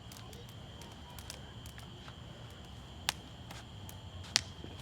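Small campfire of dry twigs and branches crackling, with scattered sharp snaps and two louder pops about three and four and a half seconds in.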